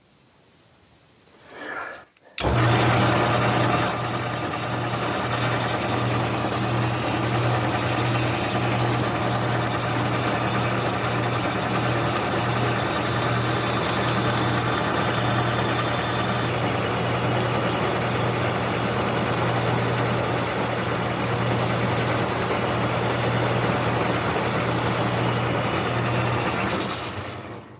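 Metal lathe starting up abruptly a couple of seconds in and running steadily with a strong low motor hum, taking a light facing cut of about two thousandths of an inch on the end of the part, then shutting off near the end.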